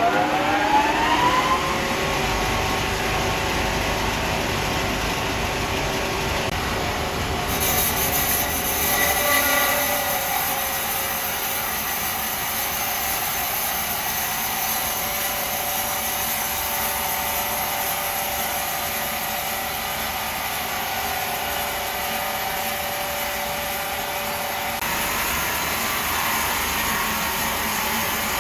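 Sawmill saw running: a whine that rises and then holds steady at speed, joined about seven seconds in by a high hiss as the blade cuts into wood. The cutting runs on steadily.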